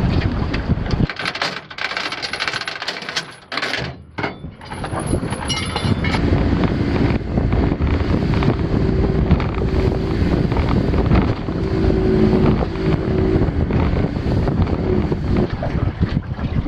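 Wind buffeting the microphone aboard a boat underway, with a steady low rumble. Around a second in it briefly drops quieter for a few seconds, then the wind noise comes back.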